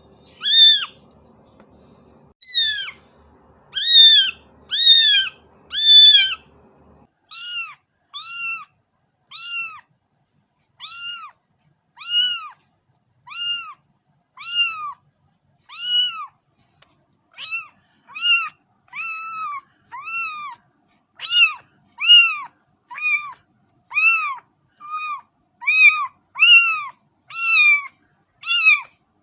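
Cat meowing over and over, high-pitched, about one short meow a second, each rising and then falling in pitch. The meows are loud for the first several seconds, quieter after about seven seconds, and grow louder again near the end.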